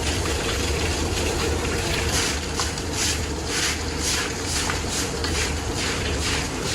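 Steady machine noise with a constant low hum; from about two seconds in, short hissing pulses repeat two to three times a second.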